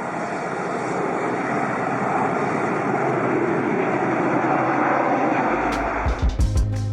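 Airplane engines running, a steady rushing noise that grows gradually louder; music with bass and drums comes in near the end.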